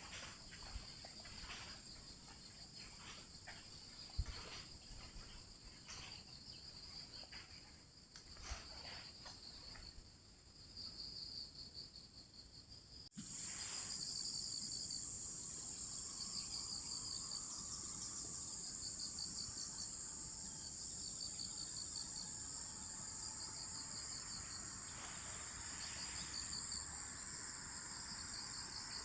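Outdoor chorus of crickets and other autumn insects: a steady high-pitched trilling with repeated pulsed chirps. In the first half a few scattered knocks and clicks sound over it, the sharpest about four seconds in; after about thirteen seconds the chorus jumps louder.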